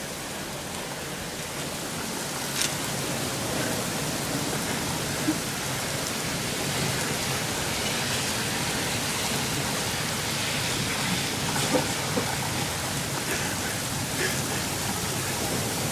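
Heavy rain in a wind and rainstorm: a steady hiss that grows a little louder about two seconds in, with a few faint knocks.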